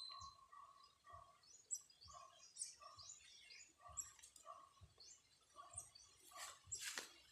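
Small birds chirping faintly: many short, high chirps, each sliding down, over a repeated lower two-note call. There is a brief rustle near the end.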